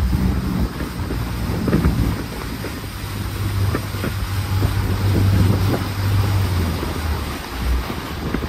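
Jet boat engine running under way, its low drone strongest in the middle and easing toward the end, with wind buffeting the microphone.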